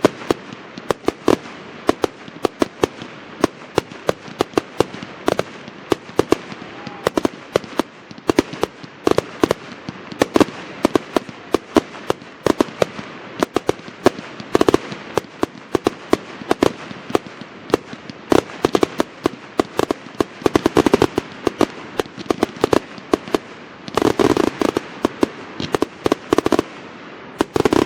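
Fireworks display: a continuous run of bangs and crackling bursts from aerial shells, coming several a second, with a dense barrage a few seconds before the end.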